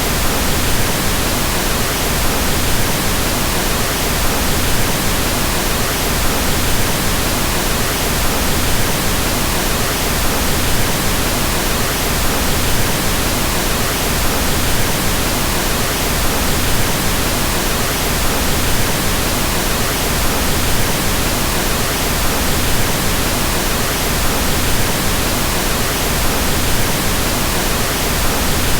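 Steady synthetic pink noise: an even hiss over all frequencies, with more weight in the lows, unchanging throughout.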